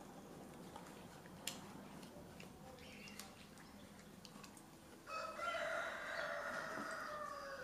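A single long, pitched bird call starting about five seconds in and lasting about two and a half seconds, dipping slightly in pitch at its end. A faint click comes about a second and a half in.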